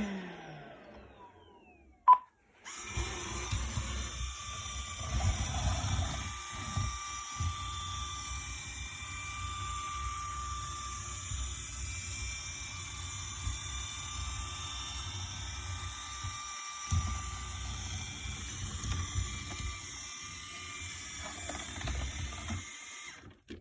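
Electrolux Pure i9.2 robot vacuum running: a steady motor hum and suction hiss with a low rumble from its brush and wheels, starting a couple of seconds in after a single short blip and cutting off suddenly near the end.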